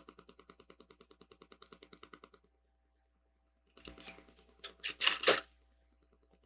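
Lego plastic bricks being handled and sorted. First comes a rapid, even run of faint light clicks, about eight a second for some two and a half seconds. After a pause there is a short rustle and a few louder plastic clatters near the end.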